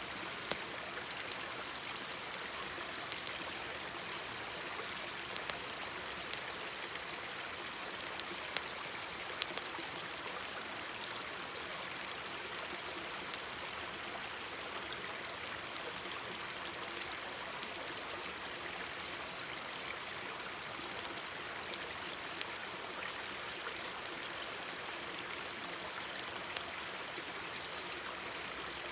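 Mountain stream babbling steadily, with sharp crackles and pops from a wood campfire at irregular moments.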